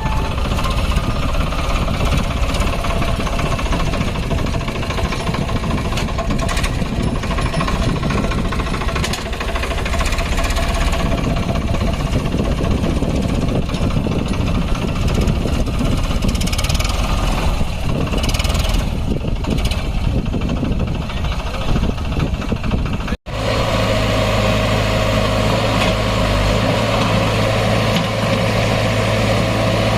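Heavy diesel engines of earth-moving and farm machinery running under work. The sound is uneven at first. About 23 seconds in it cuts out for an instant and comes back as a steadier engine drone with a strong low hum.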